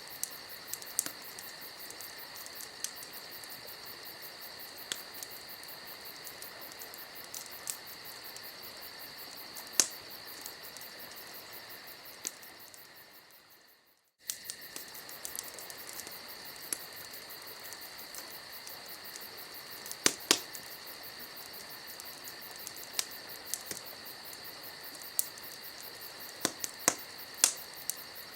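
Campfire ambience recording: a wood fire crackling with scattered sharp pops over a steady high chirring of crickets. About halfway through the sound fades out and then starts again abruptly, as at the loop point of a looped track.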